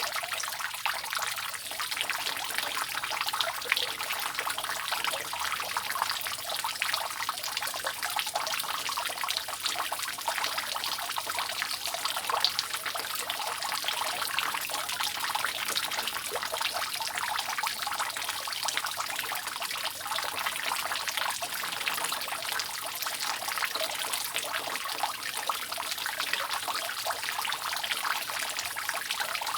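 Water dripping and trickling continuously off a roof: a dense, even run of drops with no pauses.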